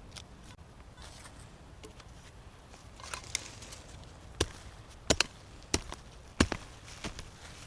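Pickaxe striking into the ground while digging, with a light rustle of soil and leaves. About four seconds in, six sharp blows come roughly one every half-second to second, two of them in quick succession.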